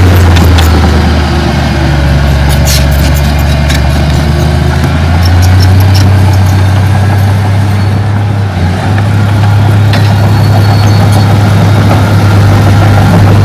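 Heavy diesel engine of earthmoving machinery running steadily at a low, even pitch, with a few sharp clicks over it.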